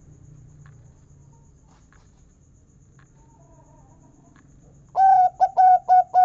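Zebra dove (perkutut) cooing: about five seconds in, a quick run of four short notes, then a longer, slightly falling final note.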